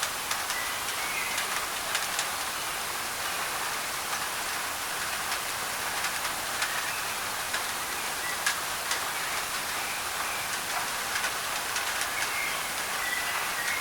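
Steady rain on a thin tin roof, with individual drops ticking sharply against it, mixed with an even white-noise hiss. Faint short bird chirps come through now and then.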